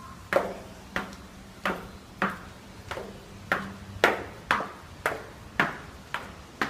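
A series of sharp knocks or taps, about two a second at uneven spacing, each with a short ringing tail, over a faint steady low hum.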